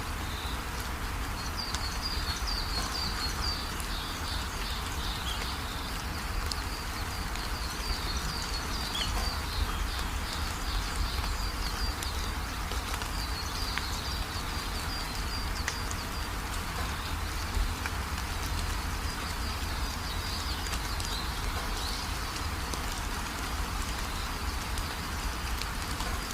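Steady rain falling, with rapid, high chirping that comes and goes above it.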